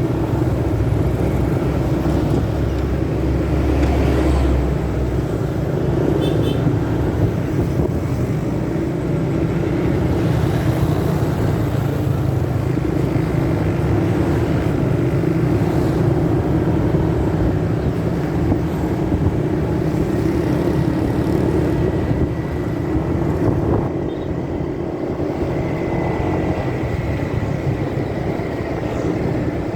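Steady motorcycle riding noise, the engine, wind and road rumble, heard muffled through the fabric of the pocket that the recording phone sits in.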